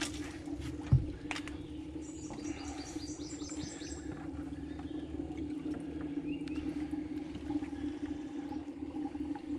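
Small birds chirping: a quick run of high, falling notes about two to four seconds in and short chirps later, over a steady low hum, with one dull thump about a second in.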